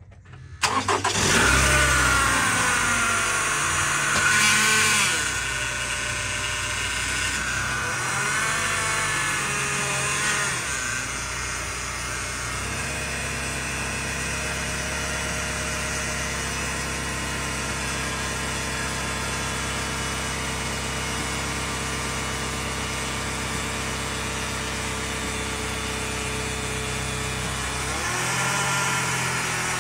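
2011 Toyota RAV4's 2.5-litre four-cylinder engine starting, revving up for a few seconds, then settling to a steady idle. It is running so that the automatic transmission's pump pushes old fluid out through a disconnected line during a fluid flush.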